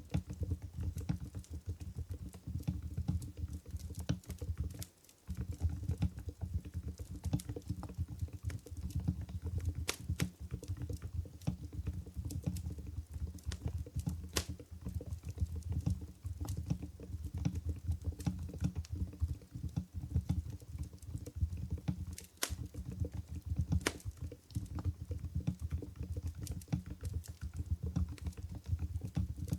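Continuous fast typing on an Mstone Groove GV10 contactless keyboard with low-noise Coral 45 g switches: soft, muffled keystrokes, with a brief pause about five seconds in and a few sharper clicks standing out.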